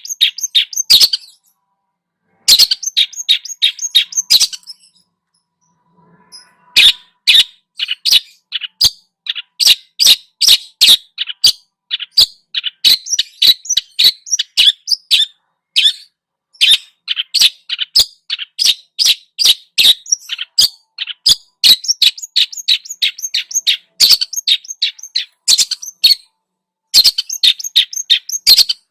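A songbird singing a fast, chattering song of short, sharp notes in quick runs, pausing for about two seconds a few seconds in before carrying on.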